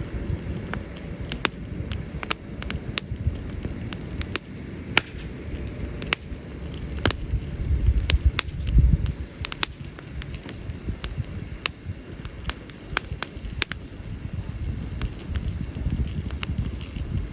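Wood campfire burning, with sharp, irregular crackles and pops over a low rumble that swells about halfway through.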